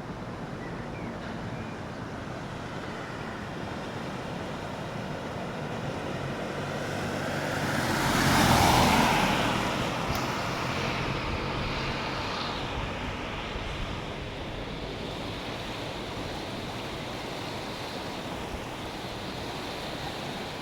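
Steady rushing of a mountain stream, with a road vehicle passing by that swells up and fades away about eight to nine seconds in.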